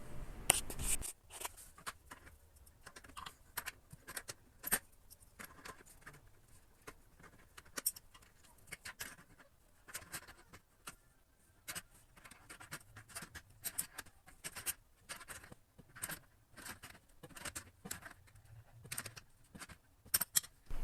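Adjustable wrench tightening the nut of a bidet's cold-water supply line: irregular small metal clicks and scrapes.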